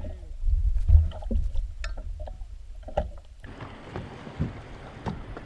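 Wind rumble on the microphone with scattered knocks and bumps on a small fishing boat; about three and a half seconds in, the sound cuts abruptly to a steady hiss with a few soft knocks.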